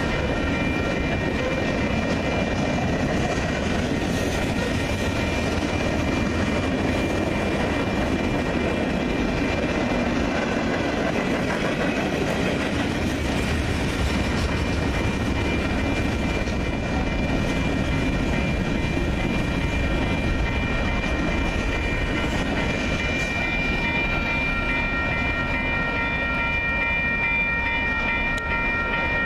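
Freight train of tank cars and covered hoppers rolling steadily past: a continuous rumble with wheel clatter on the rails. A steady high ringing tone sits over it and grows louder near the end.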